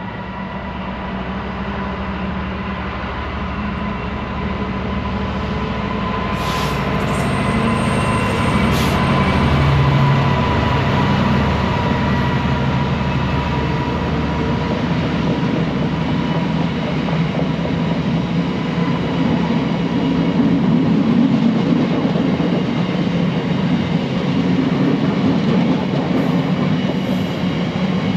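A train going past close by: a rumble that grows louder over about the first ten seconds and then holds steady, with a faint steady whine above it.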